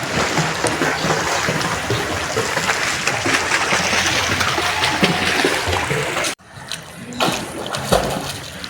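Water splashing and sloshing around a swimmer, loud and continuous. It cuts off abruptly about six seconds in, then comes back in two short stretches.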